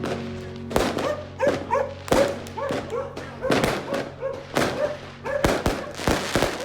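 Fireworks going off in sharp bangs while a dog barks in a quick run of short barks, about two to three a second.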